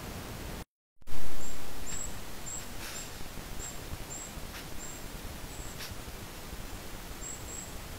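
Steady trail-camera hiss, broken by a brief dropout and a sudden loud swell of noise that fades over about a second as a new clip starts. After it, a small bird gives short, thin, high chirps about twice a second, pausing near the end, with a few faint clicks.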